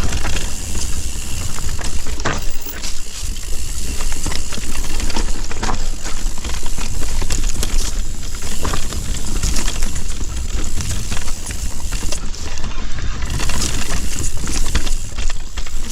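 Mountain bike riding fast down a rocky singletrack: tyres rolling and rattling over rocks and roots, with frequent sharp knocks from the bike. A steady low rumble of wind runs on the microphone underneath.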